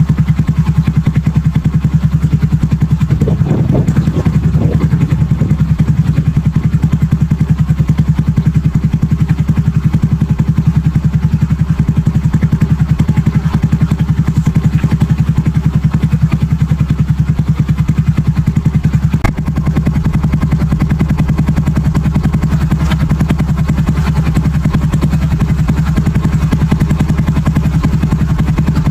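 Honda Super Cub-based motorcycle with a BEAMS aftermarket muffler, its single-cylinder four-stroke engine idling steadily with an even exhaust beat.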